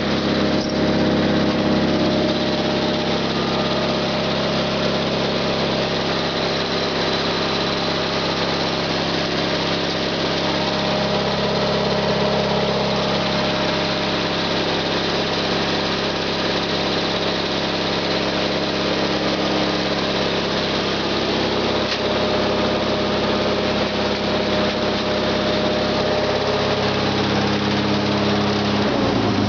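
Small garden tractor engine running steadily after a cold start. Its pitch drops just before the end.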